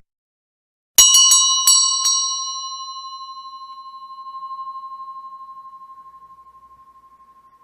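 A single metal bell, a doorbell sound effect, struck five times in quick succession about a second in. It then rings on in one long, slowly fading tone with a slight waver. There is a short click at the very start.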